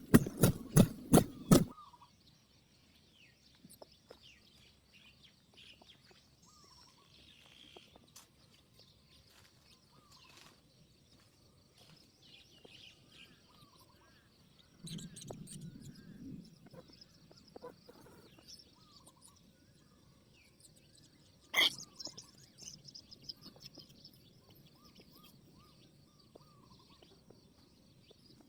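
Faint small birds chirping now and then over a steady high insect hum. The first second or two hold a rapid run of loud thumps, and a single sharp click comes about 22 seconds in.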